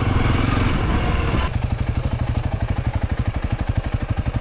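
Honda CRF300L dirt bike's single-cylinder engine running under throttle, then dropping back about a second and a half in to a lower, evenly pulsing note as the throttle comes off.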